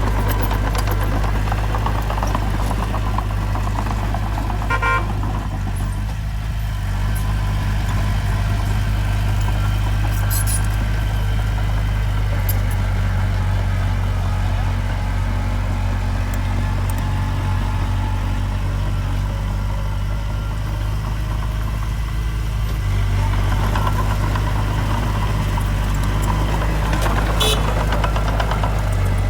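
Heavy earthmoving machinery's diesel engine running steadily under load, with a short beep about five seconds in and a couple of sharp clicks or clanks later on.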